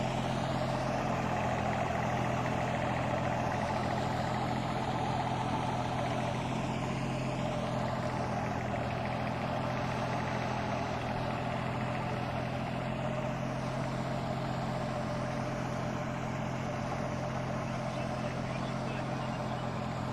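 Deutz-Fahr Agrolux 50 4WD tractor's diesel engine running at a steady, even speed.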